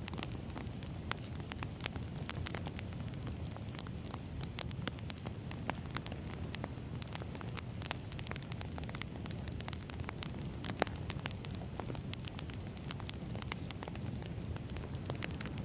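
Burning firewood: a steady low rumble of flames with frequent irregular sharp crackles and pops of the wood.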